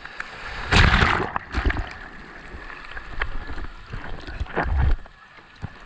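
Sea water sloshing and splashing around a surfer in the water, in irregular bursts, the loudest about a second in and again near five seconds, with wind rumbling on the action camera's microphone.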